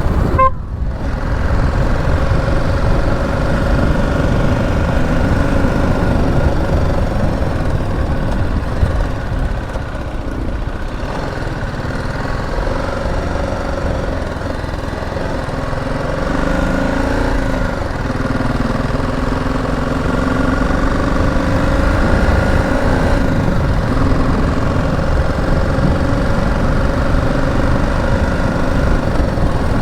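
BMW G 310 GS single-cylinder motorcycle engine running under way, its note rising and falling a few times midway as the throttle changes, over a heavy low rumble of wind on the microphone.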